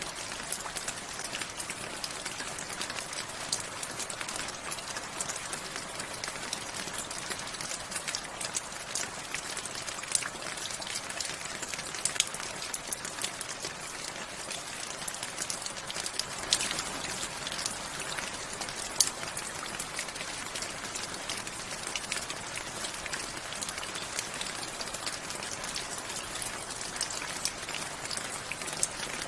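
Steady rain falling, with many individual drops ticking sharply on a surface over an even hiss.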